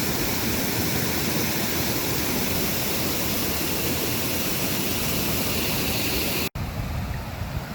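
Steady rushing noise of flowing water, even and full across low and high pitches. It cuts off abruptly about six and a half seconds in, and a quieter, gusting rush follows.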